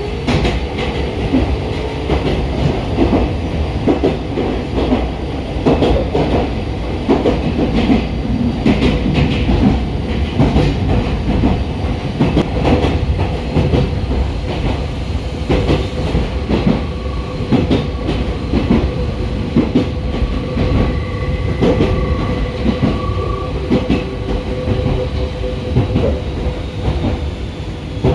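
Meitetsu electric train running on the Chikko Line, its wheels clattering over the rail joints in a continuous rumble of irregular knocks, with a faint steady hum underneath.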